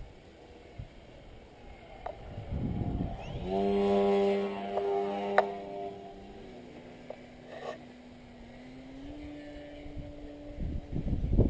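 Electric motor and propeller of a Fun Cub RC plane in flight: a buzzing hum that swells as the plane passes close about three seconds in, then fades to a thinner tone that steps up in pitch twice. Wind gusts rumble on the microphone near the start and end.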